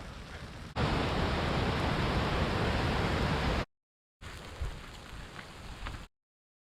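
Steady rain hiss with no pitch to it, much louder for a few seconds near the start. It cuts to dead silence twice at edits.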